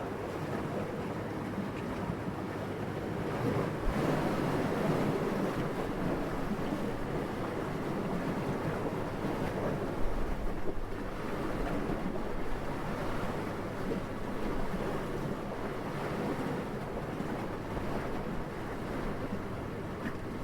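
Steady wind, a low rushing that swells in gusts, loudest about four seconds in and briefly again around ten seconds.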